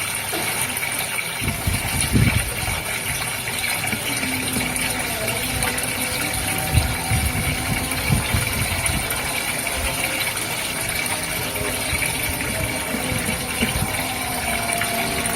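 Aquarium pump running steadily with a thin hum, while water bubbles and gurgles irregularly in the goldfish tank.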